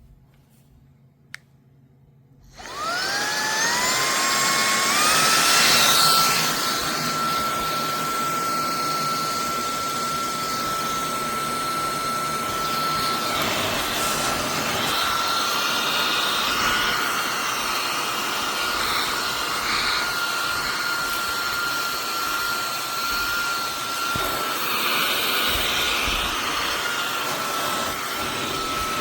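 Cordless handheld vacuum switched on about two and a half seconds in. Its motor whine climbs in a few steps to a steady high tone, then runs steadily with a rush of air, its pitch wavering slightly.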